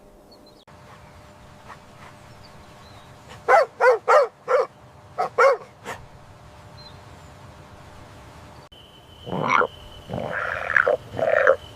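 Animal calls: a quick run of about six short calls in the middle. After a change in background near the end, longer calls sound over a steady high tone.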